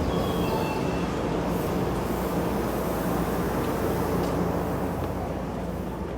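Shinkansen bullet train running, a steady rush of rail and wheel noise that slowly fades.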